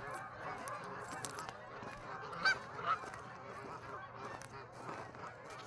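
A large flock of Canada geese honking, a dense chorus of many overlapping calls, with a couple of calls standing out a little louder about two and a half and three seconds in.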